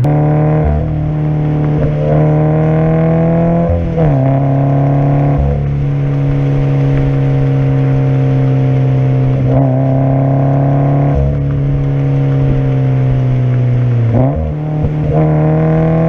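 Subaru BRZ's 2.0-litre flat-four engine and Invidia N1 cat-back exhaust cruising in fifth gear at highway speed, a steady deep drone heard inside the cabin. Its pitch drops about four seconds in and rises again near the end.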